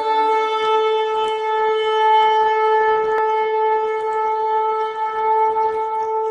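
A shofar sounded in one long, steady blast held on a single note.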